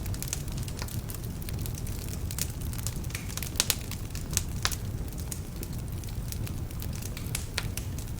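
Wood fire burning in a fireplace: a steady low rumble of flames with frequent sharp crackles and a few louder pops in the middle, the crackling from logs that are a little damp.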